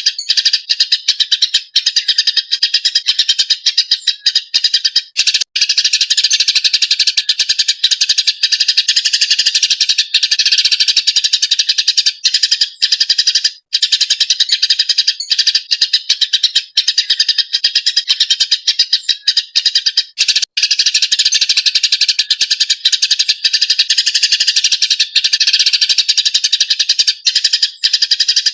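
Eurasian tree sparrows chirping fiercely in a fast, unbroken stream of high, harsh chirps, with only a few brief breaks.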